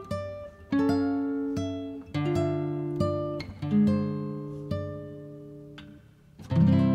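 Background music: acoustic guitar picking notes and chords that ring and die away, with a strummed chord near the end.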